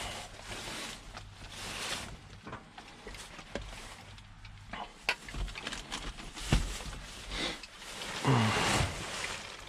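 Rummaging through dumpster contents: rustling of bags and packaging, with scattered knocks and clunks as items are handled and set down in a tote.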